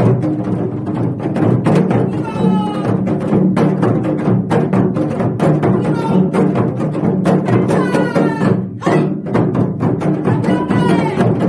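Janggu drums struck in rhythm by a group, playing along with a recorded song.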